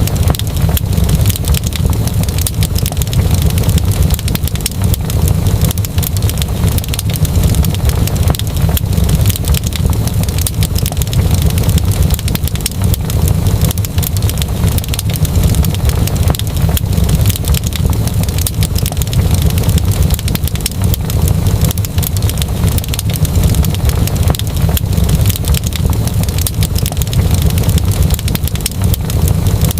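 Wood fire crackling: constant, irregular small pops and snaps over a steady low rumble.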